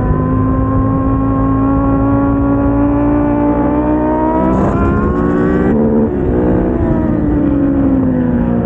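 KTM 690 SMC-R's single-cylinder engine under acceleration, its note rising steadily for about five and a half seconds before it drops off suddenly. The note then falls away as the bike slows.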